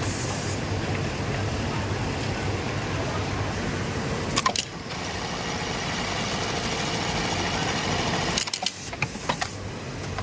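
Sewing machines running on a garment factory floor: a steady mechanical hum, with sharp clicks about four seconds in and a few more near the end.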